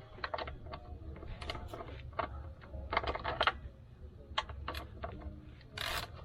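Wrench and socket on the oil drain plug as it is tightened back in: irregular metal clicks and taps, a few a second, with a short rasp near the end.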